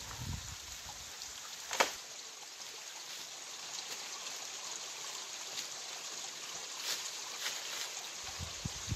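Water running over rocks at a waterfall, a steady rushing hiss. A single sharp tap about two seconds in, and a few low bumps near the start and end.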